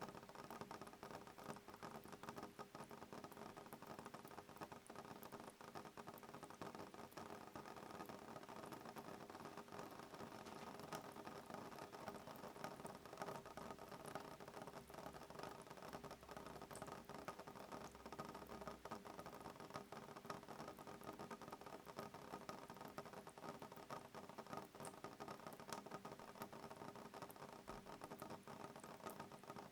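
Soft rain on window glass: a steady, quiet stream of many small drop ticks with no thunder.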